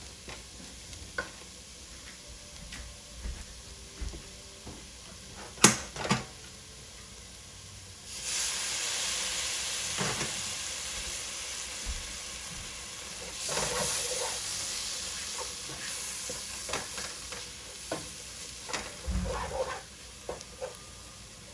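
Wooden spatula stirring and scraping onions and berbere chili paste frying in a nonstick pot, with two sharp knocks about six seconds in. A loud sizzle rises about eight seconds in and again a few seconds later as splashes of water hit the hot paste, which is being fried dry with water added a little at a time.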